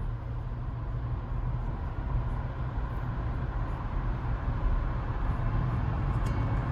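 Steady low rumble with an even hiss of noise above it.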